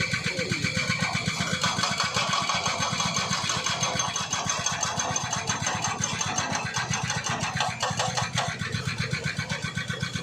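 Small engine running steadily at an even, rapid firing beat.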